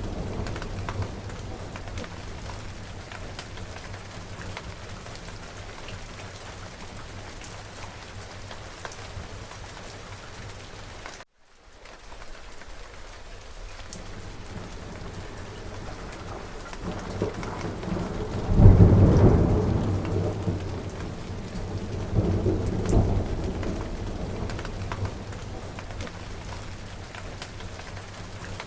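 Steady heavy rain with rolling thunder: a low rumble tails off at the start, a loud thunderclap and long rumble build up to a peak a little past the middle, and a smaller roll follows a few seconds later. About eleven seconds in, the sound cuts out completely for a fraction of a second, an edit point in the recording.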